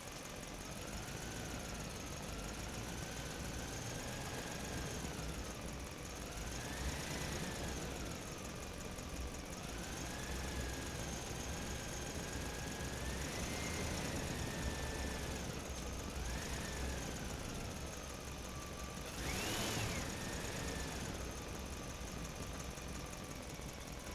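Small motor of a toy vehicle whining, its pitch rising and falling again and again as it speeds up and slows down, with the highest, loudest sweep near the end.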